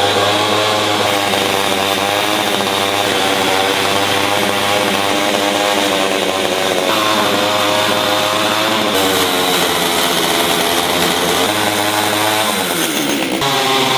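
Chainsaw running while carving wood, its engine pitch shifting several times as it is revved and loaded.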